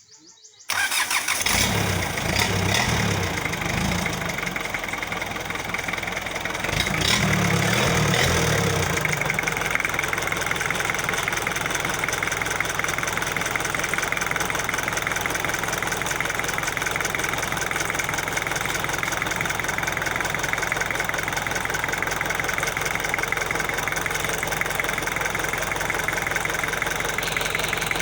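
Isuzu 4DR5 diesel engine starting about a second in. It runs unevenly for a few seconds, revs up briefly a few seconds later, then settles into a steady idle.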